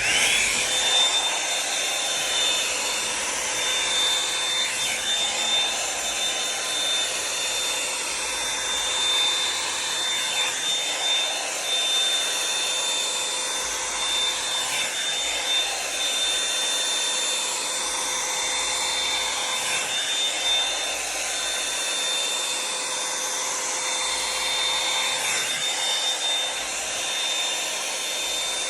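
Revlon One-Step hair dryer brush switched on and running steadily: a loud rush of air with a thin, high, steady motor whine.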